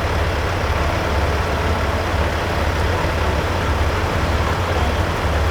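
Peterbilt semi truck's diesel engine running at a slow, steady low speed, a deep pulsing hum with no revving.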